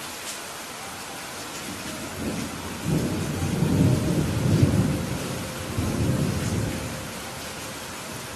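Steady rain falling, with a roll of thunder that builds about two seconds in, is loudest around the middle and rumbles away about a second before the end.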